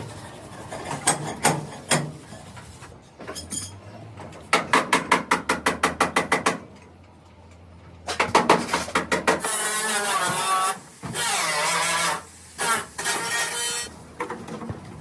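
Workshop tool noise on metal: scattered knocks, then a fast run of about a dozen ringing hammer blows, about six a second. A few seconds later comes a steady loud power-tool run with a wavering pitch that breaks off twice.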